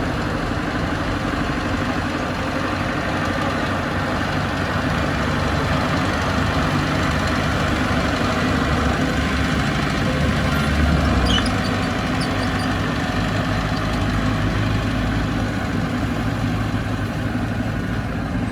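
Bulldozer's diesel engine running steadily, rising a little louder about ten seconds in and then settling back.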